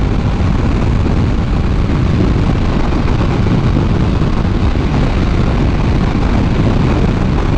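Steady wind rush on a motorcycle rider's microphone while riding, mixed with road and engine noise, strongest in the lows.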